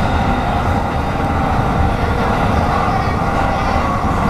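Electric commuter train running steadily on open track, heard from inside the driver's cab: an even rumble of wheels on rail with a faint steady hum of tones over it.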